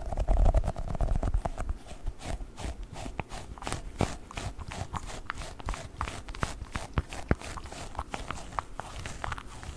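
Sticky Globbles squishy toy balls handled and squeezed, giving a quick irregular run of sticky pops and crackles, with a few heavier low thumps in the first second.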